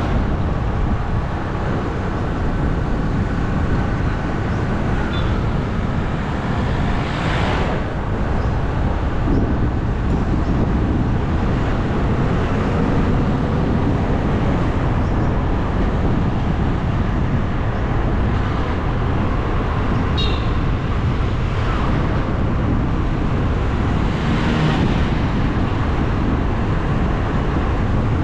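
Steady rumble of road noise and wind buffeting the microphone while riding along a road. Other vehicles whoosh past about a third of the way in and twice near the end.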